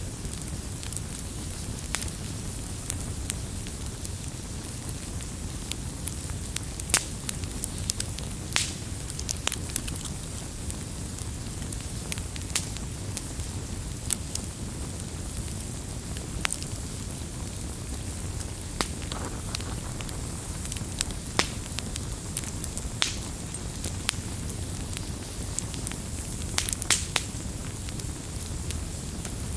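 Firewood burning: a steady low rumble of flame with irregular sharp crackles and pops from the wood.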